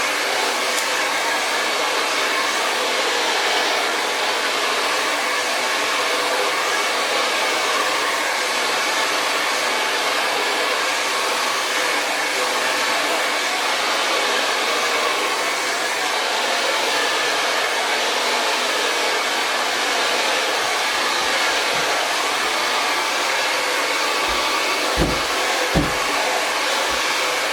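Hair dryer blowing steadily, a constant rushing airflow with a faint whine. A few short, low thumps come near the end.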